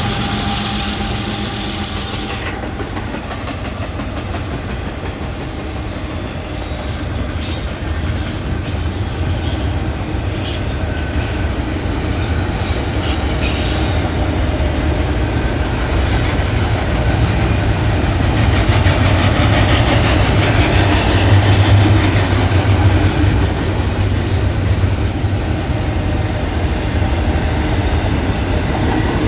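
Railroad cars rolling past on the track: a steady low rumble with the clickety-clack of wheels over rail joints, and bouts of high-pitched wheel noise now and then.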